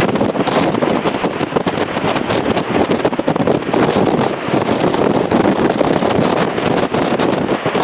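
Typhoon wind blowing hard and without let-up, buffeting the microphone with rough, crackling gusts.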